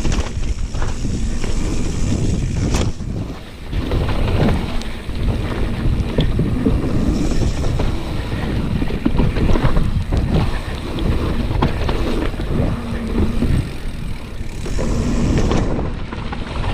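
Mountain bike descending a slippery trail of wet leaves: wind buffeting the microphone over the rumble of the tyres, with scattered knocks from the bike going over bumps.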